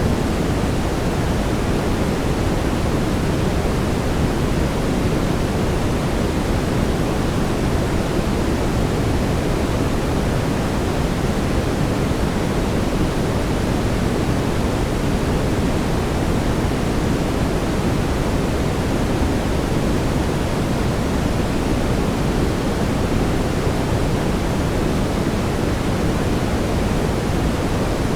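Brown noise: a steady, deep, even rushing hiss, its energy weighted toward the low end, with no changes.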